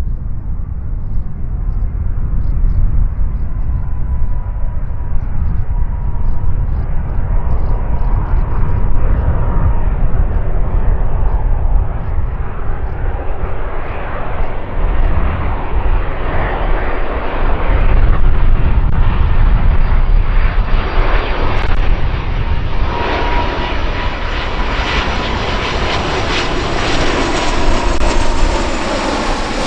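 Airbus Beluga XL's twin Rolls-Royce Trent 700 turbofans as the cargo jet comes in to land, a continuous jet rush that grows brighter as it closes in, with a faint steady whine through it and a broad swell about three quarters of the way through.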